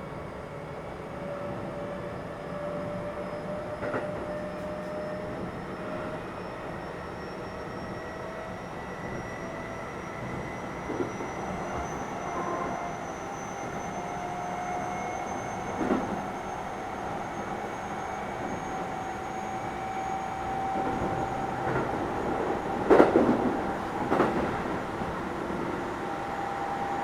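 Keio 7000 series electric train running, with a motor whine that rises slowly in pitch as the train gathers speed over steady wheel and track noise. Several sharp knocks from the wheels on the track come through, the loudest a little past twenty seconds in.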